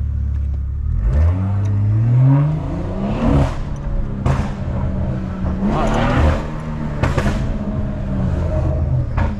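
Stage 2 tuned BMW 440's turbocharged B58 inline-six accelerating, its pitch climbing for about two seconds, then settling into a steadier note broken by a few short sharp bursts. The tune is set up to let out one big exhaust pop, which it does not always manage.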